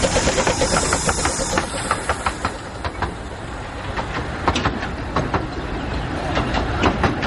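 Narrow-gauge steam train on 15-inch track: a steady hiss of steam for about the first second and a half, then irregular clicks of wheels passing over rail joints.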